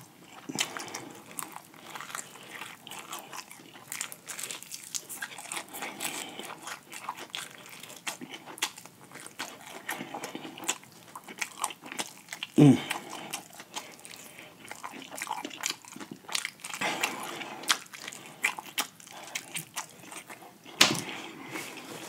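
Close-miked biting and chewing of fried chicken drumsticks: many small crunches of the breaded crust and wet mouth smacks.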